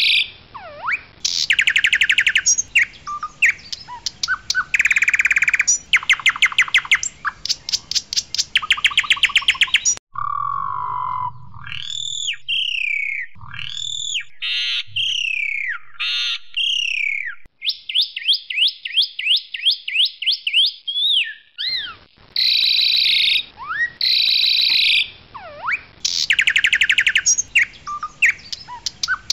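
Asian pied starling (jalak suren) singing loudly: bursts of fast, rattling repeated notes and trills. Midway these give way to a run of clear whistled notes that rise and fall about once a second, then a very fast series of rising ticks, before the rattling bursts return.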